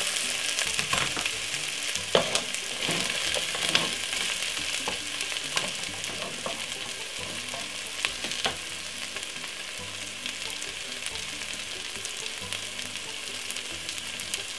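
Chicken quarter and chopped vegetables sizzling in hot oil in a pot, a steady frying hiss. A utensil clicks against the pot several times, mostly in the first half, and the sizzle eases a little after about four seconds.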